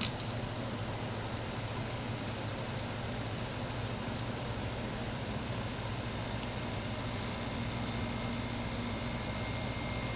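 Window air conditioner, about 8,000 BTU, switched from fan to compressor mode. A sharp click of the control switch comes at the very start, then the fan and compressor run with a steady hum.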